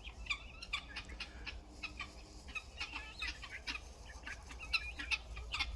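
Domestic guinea fowl calling: many short, rapid clucking calls one after another.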